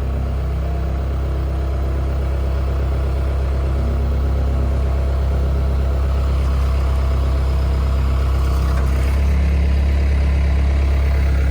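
A motor running steadily at idle, a constant low hum with a slight change in pitch about eight to nine seconds in.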